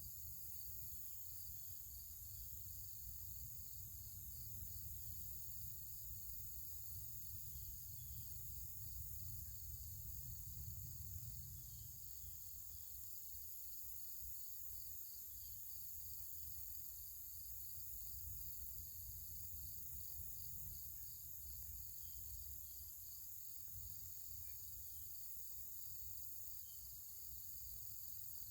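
Faint, evenly repeated insect chirping, a cricket-like pulse about twice a second, over a low rumble and a steady high hiss.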